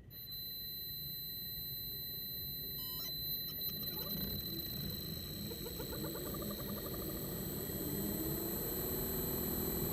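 LG Dual Inverter window air conditioner starting up. A steady high-pitched whine comes on at once, a few clicks sound about three seconds in, and then the inverter compressor's hum rises in pitch as it ramps up, getting gradually louder.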